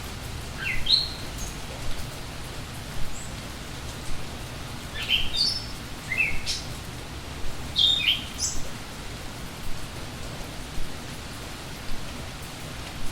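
Steady rain falling, with a songbird giving short, rising, high chirps in a few clusters during the first nine seconds. Occasional sharper taps stand out above the rain.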